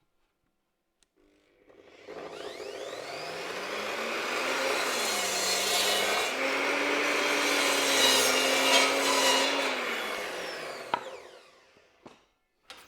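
Electric power saw spinning up, cutting through a piece of timber blocking, then winding down and stopping, with a click as it finishes and a few light knocks of wood afterwards.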